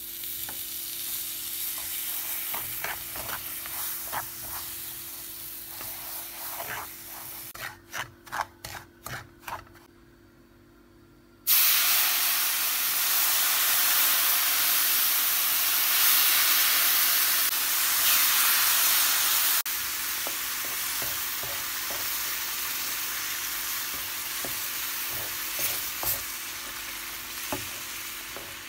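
Semolina halva cooking in a pan: a spoon stirring and scraping over a steady sizzle, then a run of about six quick strokes and a short pause. After the pause a much louder, steady sizzle starts and later eases somewhat, with light scraping clicks.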